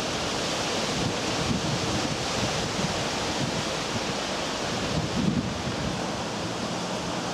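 Thunderstorm rain and gusting wind making a steady, even hiss, with gusts buffeting the microphone in low rumbles.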